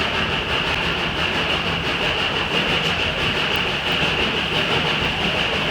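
Narrow-gauge train running on the rails: a steady rumble and rattle with a high, steady hiss over it.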